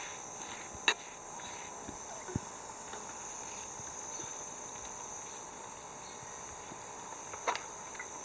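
Steady high-pitched chirring of summer insects, with a few sharp clicks or knocks: one about a second in, a smaller one soon after, and another near the end.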